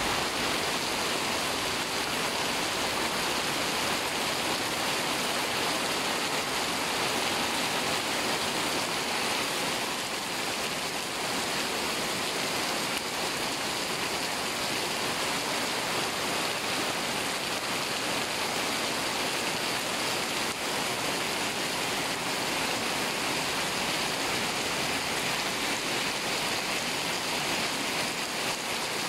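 Heavy rain pouring steadily onto a paved street, pavement and parked cars: a dense, even hiss.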